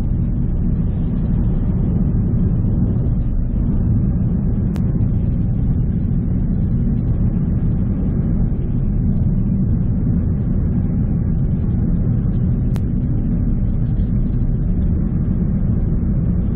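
Steady road and engine rumble inside a Ford Focus's cabin while driving, with two faint clicks about eight seconds apart.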